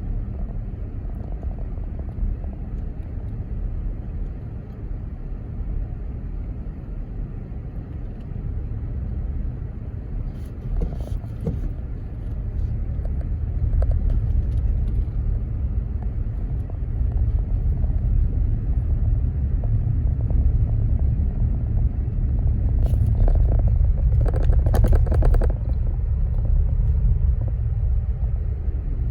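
A car driving, heard as a steady low rumble of engine and road noise that grows louder about halfway through, with a few brief clicks near the end.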